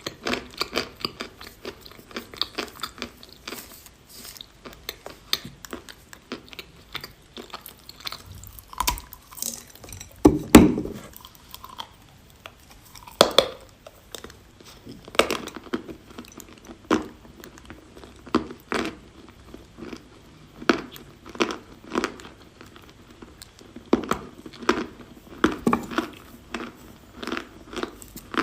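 Close-up chewing and crunching of a piece of chalk: a string of separate dry, crackling bites a second or two apart. The loudest crunch comes about ten seconds in.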